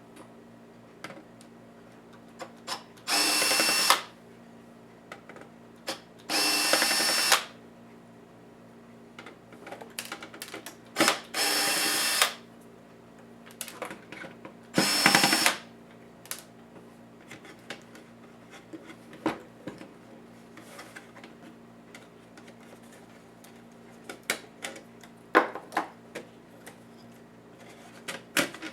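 A small electric screwdriver runs in four short bursts of about a second each, backing screws out of a netbook's case, with small clicks and taps of screws and plastic parts between the bursts.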